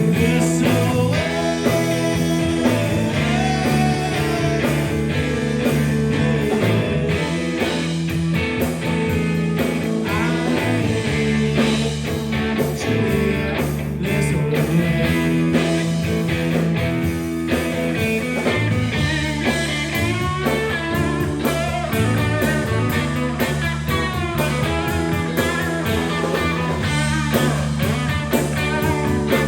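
A blues-rock band playing live, with electric guitar over a steady bass line.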